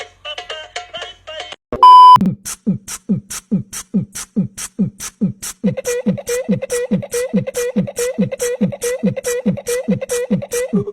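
A short bit of vocal music, then a loud single-tone beep. After the beep a steady beat of low thumps and sharp ticks starts, about two to three a second. About halfway through, a held tone joins the beat.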